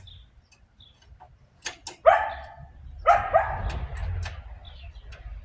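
A dog barking: one sharp bark about two seconds in, then a quick run of three barks a second later.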